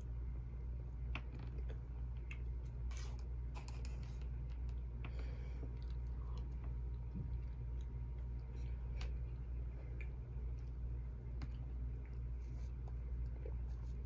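Chewing and scattered soft clicks of a plastic fork against a plate, over a steady low hum.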